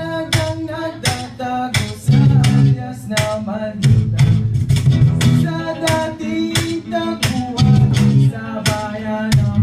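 Live acoustic band performance: strummed acoustic guitar chords with a steady percussive beat and a singing voice.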